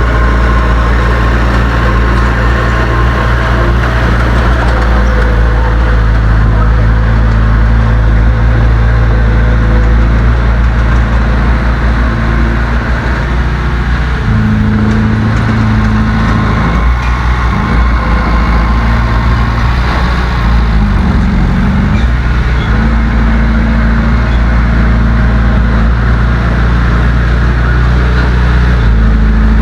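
Heavy diesel engine of earthmoving machinery running loud and steady, its pitch shifting in the middle, dipping and climbing back as the throttle changes.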